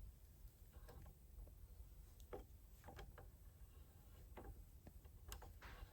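Near silence with faint, irregular light clicks and ticks of metal hand-tool work, as a Heli-Coil thread insert is wound into a carburetor's stripped fuel-inlet threads.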